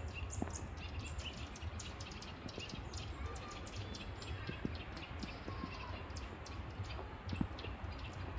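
Small birds chirping: a quick, busy run of short, high calls, over a low steady rumble.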